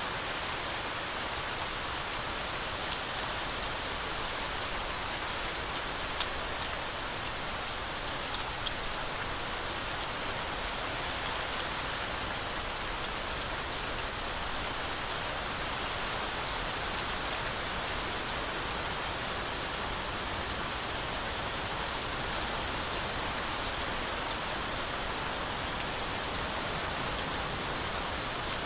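Steady heavy rainfall pattering through a forest canopy, a continuous even hiss with a few sharper drop ticks here and there.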